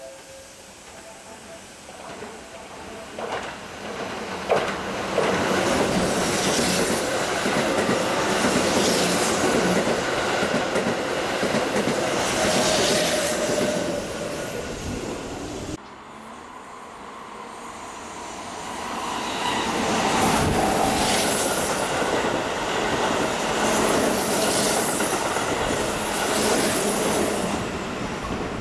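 Keihan limited express electric trains running through a station at speed, two separate passes with an abrupt cut between them about halfway through. Each pass has a rhythmic clatter of wheels over the rail joints repeating every couple of seconds.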